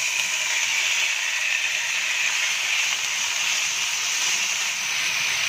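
Boneless chicken cubes, marinated and freshly added to hot oil in a frying pan, sizzling steadily.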